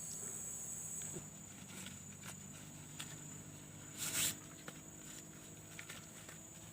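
Insects chirring steadily at a high pitch, fading somewhat about a second in, with scattered soft clicks and rustles and a brief louder rustle about four seconds in.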